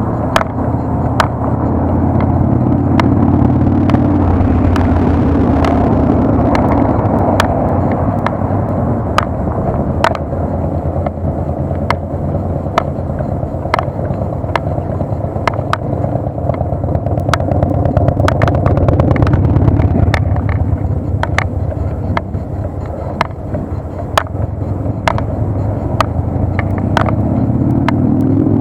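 Riding noise from a bicycle ride recorded on an SJ4000 action camera: steady wind buffeting and tyre-on-road rumble, with frequent sharp rattles and knocks as the bike goes over bumps. A hum rises in pitch near the end.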